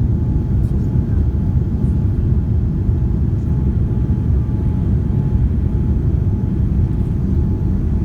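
Steady low rumble inside the cabin of a Boeing 787-9 Dreamliner, from its Rolls-Royce Trent 1000 engines and the airflow, with a faint steady hum above it.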